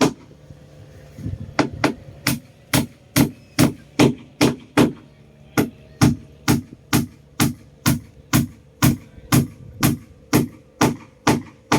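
Steady hammer blows on wood, about two to three strikes a second, driving nails into a wooden boat under repair; the strikes pause briefly near the start and again about five seconds in.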